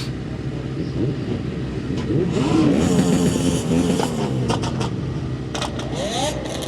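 Several vehicle engines idling and revving at once, their pitch rising and falling over one another and loudest about two to four seconds in, followed by a series of sharp pops in the second half.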